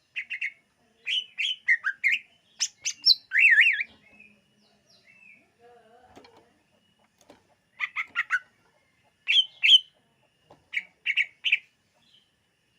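Cucak ijo (greater green leafbird) singing in short bursts of quick, sliding, whistled notes. There are several phrases in the first four seconds, a pause of about three seconds, then more phrases from about eight seconds in.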